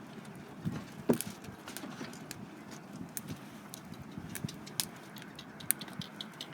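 Wood campfire crackling, with irregular sharp pops and ticks over a low steady rustle, one louder pop about a second in.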